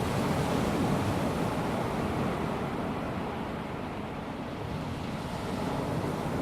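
Calm sea lapping on a sandy beach: a steady wash of small waves that swells slightly and eases again, with no breaking crash.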